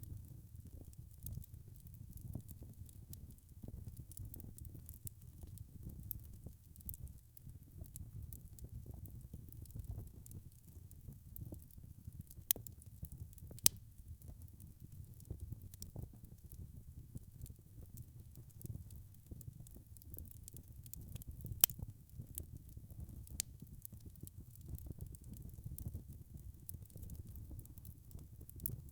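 Wood fire crackling in a fireplace. There is a steady low rumble of flames, with frequent small crackles and a few sharper pops from the burning logs. The loudest pops come about halfway through and about three quarters of the way in.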